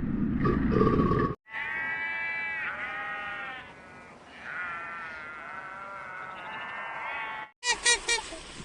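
A low rumbling noise cuts off about a second and a half in. Then a sheep bleats two long, wavering calls.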